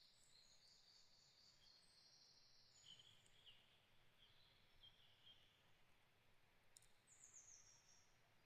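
Faint birdsong: a high, buzzing trill for the first couple of seconds, then scattered short chirps, and a quick falling run of notes near the end.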